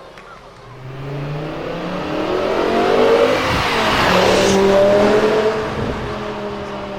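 BMW performance car accelerating toward and past, its engine note rising and getting louder, then dropping in pitch as it goes by about four to five seconds in.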